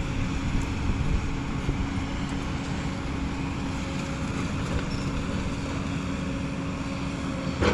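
Excavator's diesel engine running steadily under load: a continuous low rumble with a steady hum.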